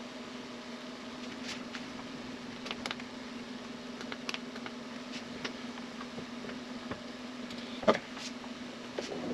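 Benchtop milling machine running with a steady hum, with light clicks and ticks of hand adjustments at the machine and one sharper knock about eight seconds in.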